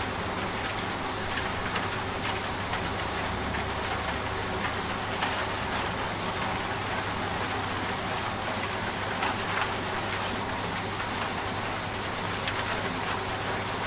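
Steady rain falling, with many single drops ticking on a surface, over the low steady hum of a running washing machine.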